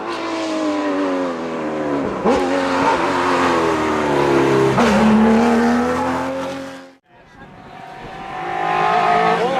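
Historic rally car engine revving hard on a stage, its pitch climbing and falling back sharply twice at gear changes. About seven seconds in the sound cuts off abruptly, then another rally car's engine grows louder as it approaches.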